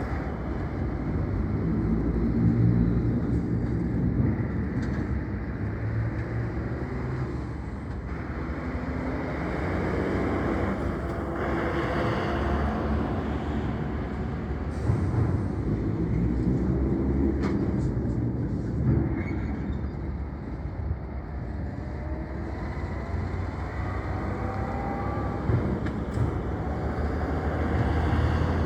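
Diesel semi-trailer trucks driving off a RORO cargo ship one after another, their engines swelling and fading as each passes, with a few brief knocks along the way.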